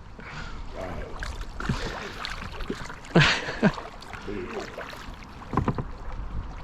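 Kayak paddling on a river: paddle strokes dipping and splashing in the water, with a louder splash about three seconds in. Faint, short voice calls from someone farther off break in now and then.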